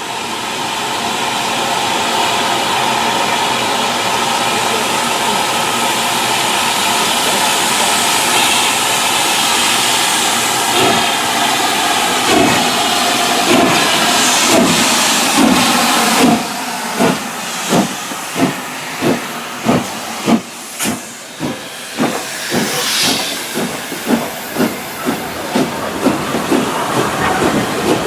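Steam locomotive with a loud, steady hiss of steam for about the first sixteen seconds, then pulling away: exhaust chuffs start about a second apart and gradually quicken, with the hiss still underneath.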